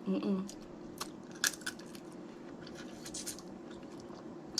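Snow crab leg shells cracking and snapping, a handful of separate sharp clicks spread over a few seconds, with a brief hummed 'mm' at the start.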